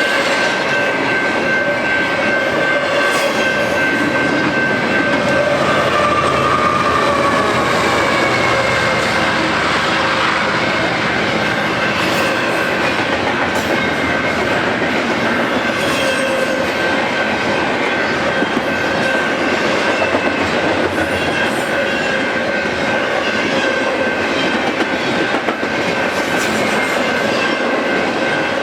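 BNSF freight train rolling past close by, its cars' wheels clicking over the rail joints amid a steady rumble of wheels on rail. A steady high-pitched ring runs through it the whole time.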